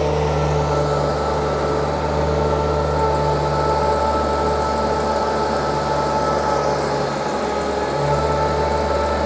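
Perkins diesel engine of a stand-on skid steer running at full throttle while the machine travels, a steady low drone with a thin whine above it. The low note drops briefly about seven seconds in and then comes back.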